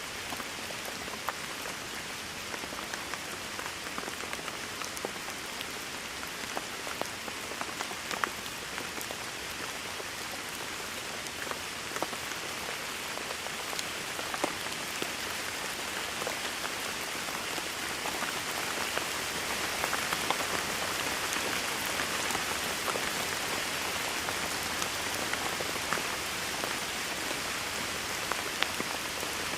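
Steady rain falling on a hard surface, with individual drops ticking sharply through the hiss; the rain grows a little heavier about two-thirds of the way through.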